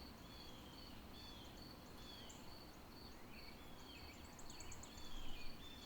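Faint outdoor ambience: birds calling in repeated short falling chirps and an insect trilling in steady even pulses, over a low hiss. The chirps grow a little louder about four seconds in, with a quick run of high ticks.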